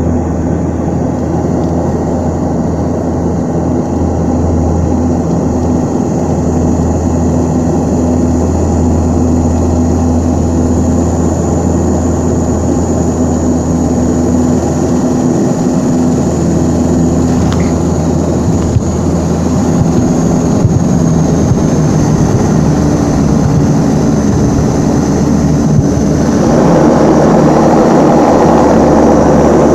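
Antonov An-24's twin Ivchenko AI-24 turboprop engines and propellers running steadily, with a low hum and a thin high whine that slowly drops in pitch. About 26 seconds in, the engine sound grows suddenly louder and fuller.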